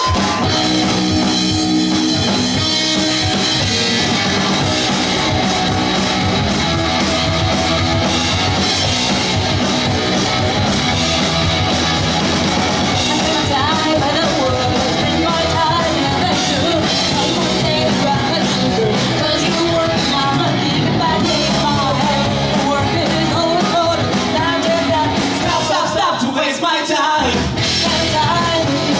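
Pop-punk band playing live: drum kit, electric guitars and bass with sung vocals, loud and steady. The bass and low end drop out briefly near the end, then come back in.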